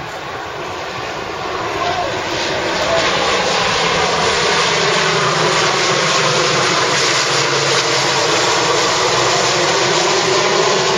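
Lockheed C-130 Hercules four-engine turboprop making a low pass. The engine and propeller drone grows louder about two seconds in and stays loud, and its tones slide in pitch as the aircraft goes by.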